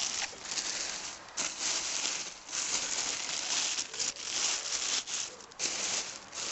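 Plastic bag crinkling and rustling as it is handled, in irregular bursts with brief pauses between them.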